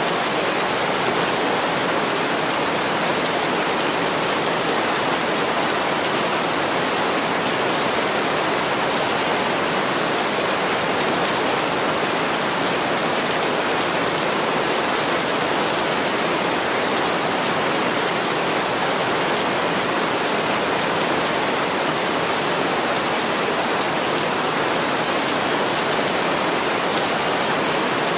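Heavy rain falling on a window: a steady, even hiss with no breaks.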